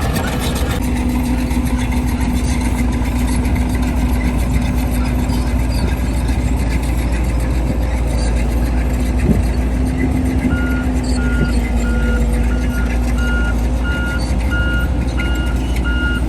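Heavy diesel earthmoving machinery running steadily with a deep rumble, with a single sharp knock about nine seconds in. From about two-thirds of the way in, a reversing alarm beeps repeatedly, about one and a half beeps a second.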